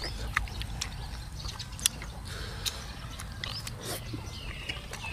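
Close-up eating sounds: chewing and lip smacks with scattered small clicks, and a few faint bird chirps in the background.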